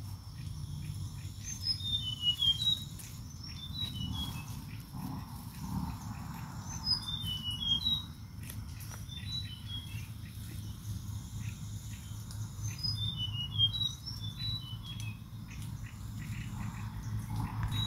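Birds chirping: clusters of short high notes that rise and fall, repeating every five or six seconds, over a steady low rumble.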